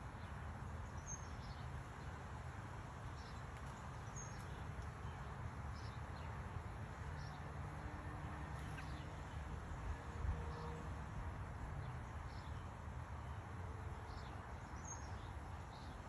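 Faint high bird chirps, short and repeated about once a second, over a steady low rumble.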